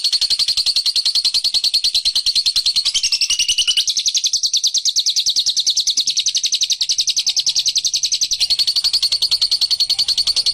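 Bird-call lure recording: a small songbird's rapid chattering ('ngekek') call, high-pitched notes repeated evenly about seven times a second without a break. It is the call used to draw in bilabu (labet) birds.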